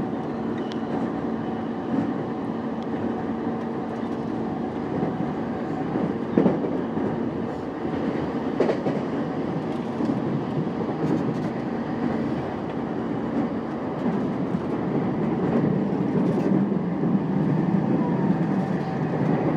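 JR East E233-5000 series electric train running at speed: a steady rumble of wheels on rail with a level motor hum and a few sharp rail-joint knocks.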